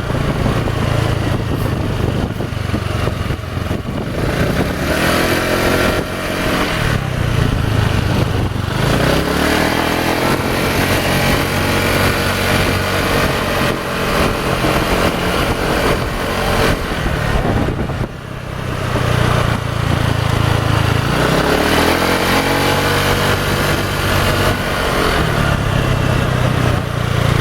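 Motorcycle engine idling and revved up and back down twice, once early and once near the end. It carries the "ngorok" (snoring) noise whose source the owner is trying to track down.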